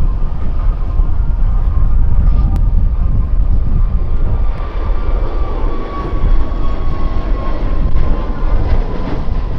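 Jet airliner engines running loud: a deep, steady rumble with a whine that slowly falls in pitch.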